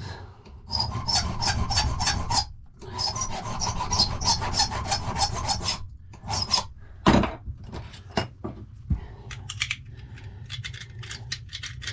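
Hand file rasping on the bit of a safe key, cutting a lever step by hand. It goes in two runs of quick, even strokes, about four a second. After them come a single loud knock and a few separate short scrapes.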